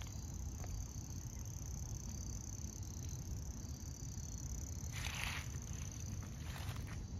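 Steady high insect chorus from crickets in the woods. Footsteps on a woodland trail come in about five seconds in, two or three steps.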